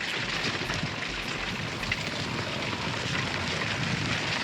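Dirt bike ridden up a muddy trail, its engine half buried in steady, dense crackling noise on the camera's microphone.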